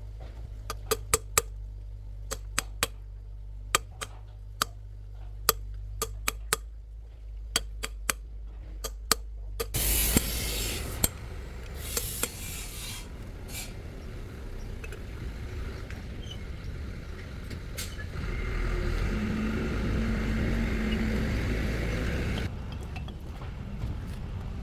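Irregular sharp metallic clicks and clinks of hand tools on metal parts. About ten seconds in, a steady rasping hiss takes over; it grows louder for a few seconds near the end, then stops.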